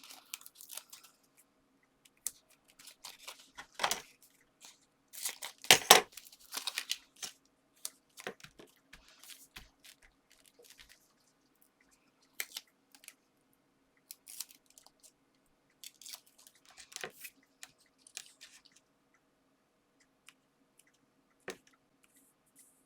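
Scattered rustles, crinkles and small taps of paper and card being handled, with the crackle of backing paper being peeled off adhesive foam pads. The loudest cluster comes about six seconds in, over a faint steady hum.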